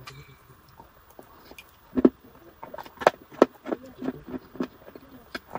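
Close-miked crunching and chewing of a dry, crumbly white food, with loud sharp crunches about two seconds in and again around three seconds in, then a run of softer crackly chews.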